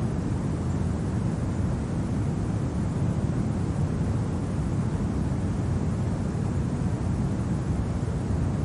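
Steady, low rumbling winter wind, an even noise with no gusts or breaks.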